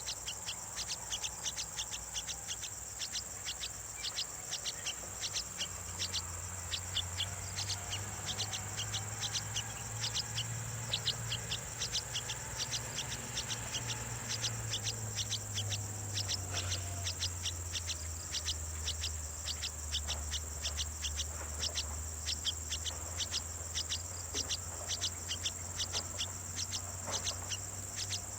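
Rapid, regular high chirps, about four a second, over a steady high-pitched insect drone, with a low hum swelling in the middle.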